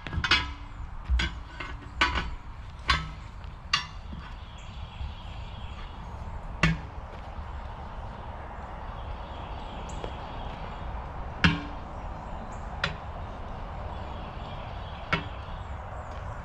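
A series of sharp knocks: several in quick succession over the first four seconds, then single ones at intervals of a few seconds, over a low steady rumble.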